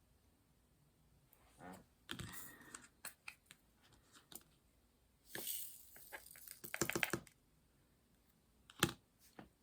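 Small plastic diamond-painting supplies being handled: scattered clicks and light rattles, a short rustle a little past five seconds in, a quick run of clicks about seven seconds in, and one sharp click near the end.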